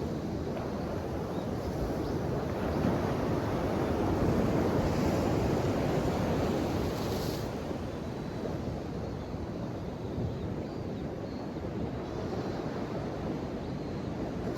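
Ocean waves washing on the shore in a continuous rush, one wave swelling and breaking with a brighter hiss about halfway through, then easing back.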